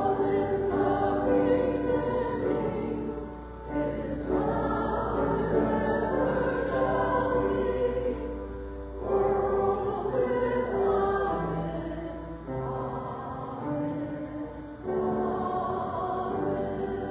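A church choir singing a slow hymn in long held phrases, with short pauses between the phrases.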